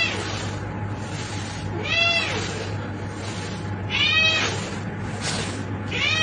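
A cat meowing four times, about every two seconds, each call rising then falling in pitch, over a steady background hiss and low hum.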